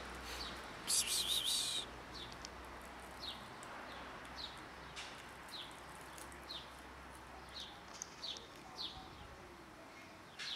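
Small birds chirping: short, high, downward-sliding chirps repeating irregularly, a few every couple of seconds. About a second in there is a louder harsh, buzzy burst lasting just under a second.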